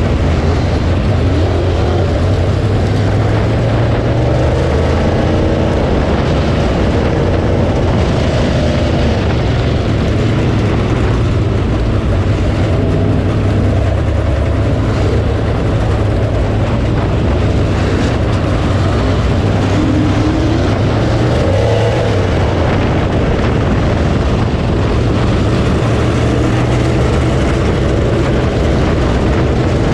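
Dirt late model race car's V8 engine running loud and steady, heard from onboard as a heavy low rumble whose pitch rises and falls with the throttle.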